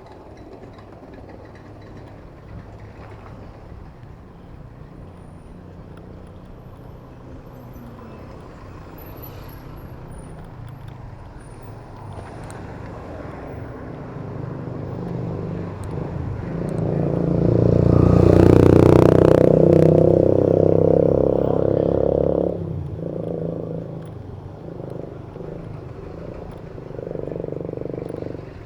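Road traffic heard from a bicycle. A heavy vehicle's engine builds up close by, is loudest for a few seconds about two-thirds of the way in, then drops off suddenly, leaving lighter traffic noise.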